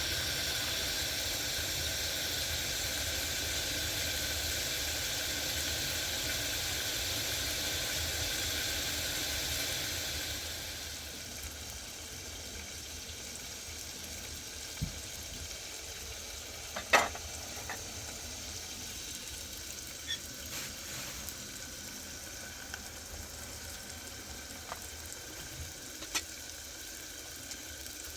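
A steady sizzling hiss that drops to a quieter level about ten seconds in, followed by a few scattered clicks and knocks.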